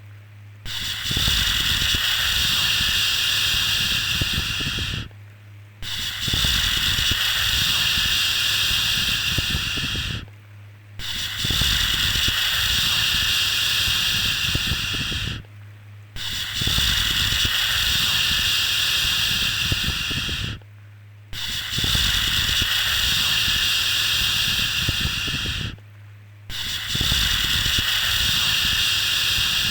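A soothing 'shhh' shushing sound for lulling a baby to sleep, repeated in long hushes of about four and a half seconds, each followed by a short break of about half a second, six times. A steady low hum runs underneath.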